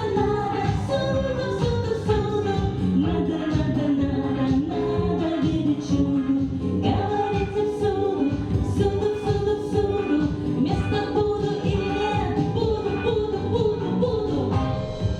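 A female voice singing a melody with long held notes over instrumental accompaniment with a steady beat.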